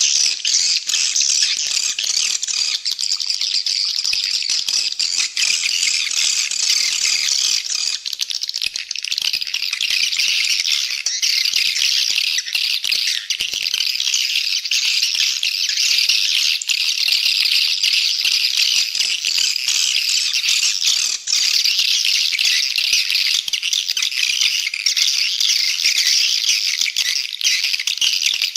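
Swiftlet call recording: a continuous, dense high-pitched twittering and chattering of many swiftlets, the lure call played to draw swiftlets into a nesting house.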